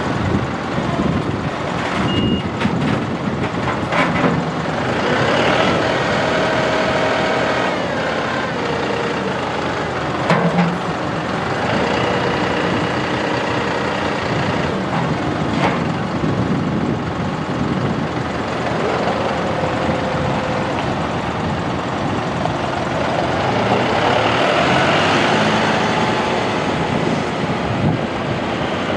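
John Deere 5055E tractor's three-cylinder turbo diesel running, its speed rising and falling, with a few sharp knocks along the way.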